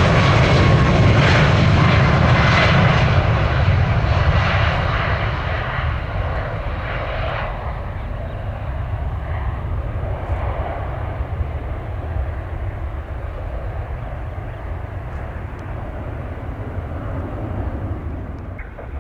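Jet airliner passing close, its engine whine falling in pitch as it goes by, then fading over several seconds to a steady distant rumble.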